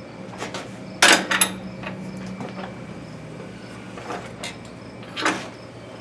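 Clanks and knocks of someone handling the Model T tractor before starting it: a quick cluster of three or four about a second in, a single loud one near the end, and a few fainter ones between, over a steady low hum. The engine is not running or cranking.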